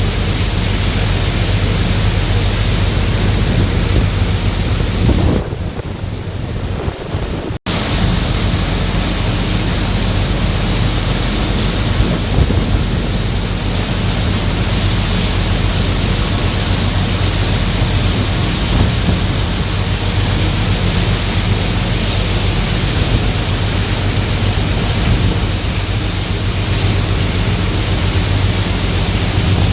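Heavy rain and wind, a steady loud rush over a constant low hum. The sound drops back for about two seconds, about five seconds in, then returns with a sudden break.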